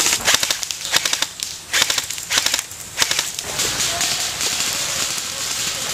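Airsoft rifle firing full-auto in several short bursts of rapid clicking plastic-BB shots, followed from about three and a half seconds in by a steady hiss.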